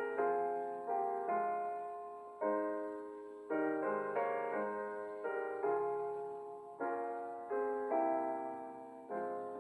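Slow, soft piano music: chords struck about once a second, each left to ring and fade.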